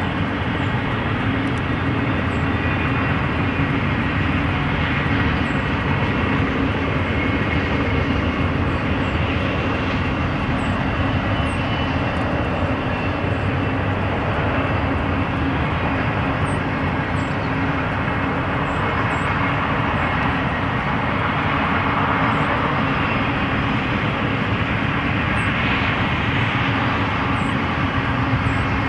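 BNSF intermodal freight train rolling past: a loud, steady rumble of steel wheels on rail that runs on without a break.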